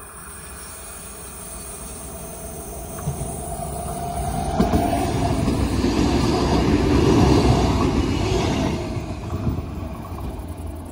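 Electric S-Bahn multiple unit approaching and passing close by. The rumble of wheels on the rails grows steadily louder to a peak about seven seconds in, then fades as the train moves away. A steady whine can be heard briefly about four seconds in.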